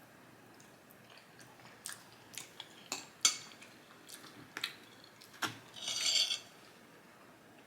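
An eating utensil clinking against a bowl, a string of sharp clicks a few times a second, followed by a short scrape about six seconds in, as pasta is scooped from the bowl.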